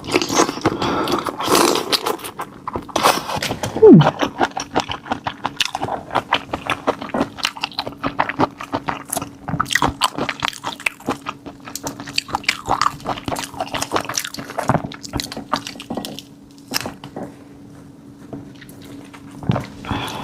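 Close-up eating sounds of raw marinated black tiger prawns: wet chewing, sucking and smacking, made of many short clicks. A steady low hum runs underneath.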